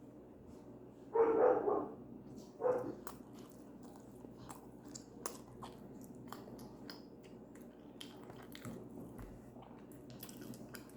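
A dog barks twice, a longer bark about a second in and a short one about a second and a half later, followed by close-up chewing with many small mouth clicks.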